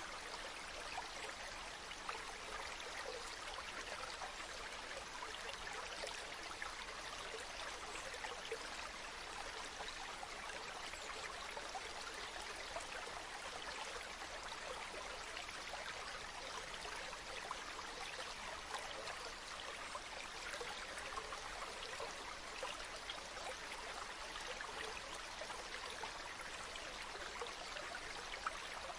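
Small stream flowing steadily, an even babble of running water with many tiny splashes throughout.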